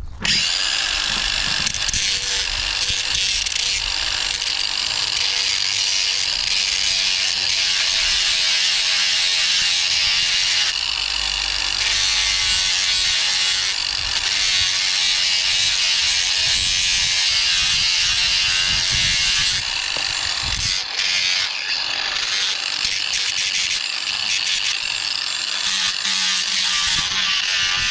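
Power grinder running steadily against a rusty steel crowbar, grinding the rust off. It is a loud, high-pitched whine, with brief dips about two-thirds of the way through.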